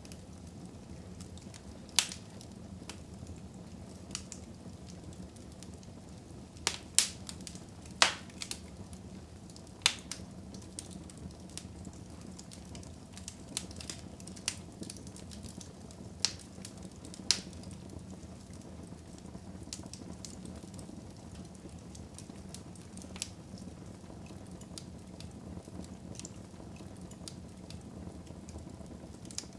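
Fire burning in a fireplace: a steady low rush with sharp crackling pops every second or few, several loud snaps bunched in the first third.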